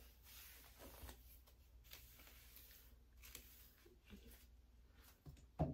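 Near silence: faint room hiss with a few soft rustles, and one short knock near the end.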